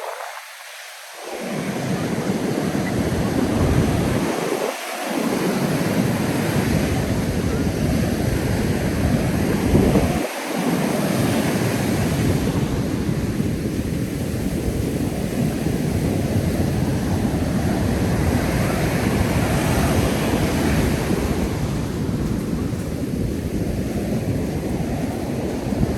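Ocean surf breaking on a beach, with wind on the microphone adding a low rumble. The rumble drops out briefly three times: at the very start, about five seconds in and about ten seconds in.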